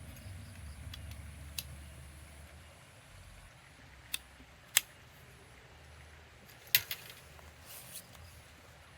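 A few sharp, separate clicks and taps over a low rumble and faint rustling. The two loudest clicks fall near the middle and about two-thirds of the way through, and a brief rustle follows near the end.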